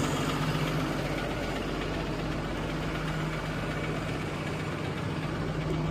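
Box truck engine idling steadily with a low, even hum.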